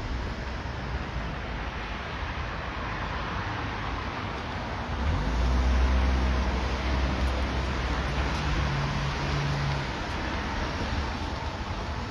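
Road traffic noise: a steady hum of traffic, with one motor vehicle's engine coming close and passing, loudest about five seconds in and fading away about ten seconds in.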